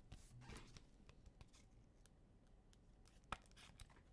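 Faint rustling and light clicks of trading cards being handled, with one sharper click about three seconds in.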